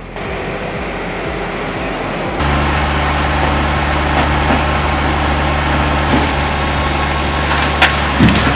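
A heavy machine's engine running steadily at a constant pitch. It comes in suddenly about two and a half seconds in, over a hiss of background noise.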